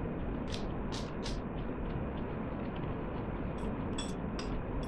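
Chewing a lettuce-leaf meat wrap: a few short crunching, smacking mouth sounds about half a second to a second in and again near the end, over a steady low background rumble.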